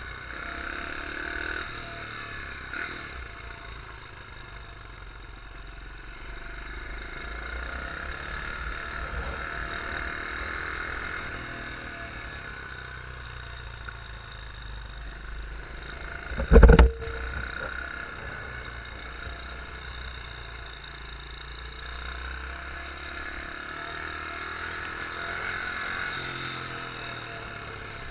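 Beta R150 pit bike engine running under the rider, heard on board, its pitch and loudness rising and falling slowly with the throttle. A single loud thump about seventeen seconds in.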